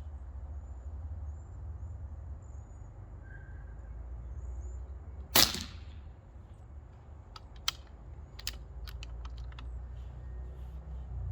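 Umarex Gauntlet PCP air rifle firing a single shot about five seconds in, a sharp crack with a short trailing report. A few lighter sharp clicks follow over the next few seconds, above a steady low rumble.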